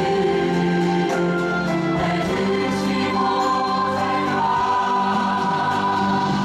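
A musical-theatre number with several voices singing together in long, sustained notes over a continuous musical accompaniment.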